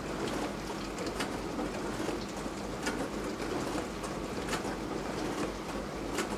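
Beko DWD5410W dishwasher running a wash, water spraying inside the tub with a steady hiss and a louder swish coming back about every second and a half.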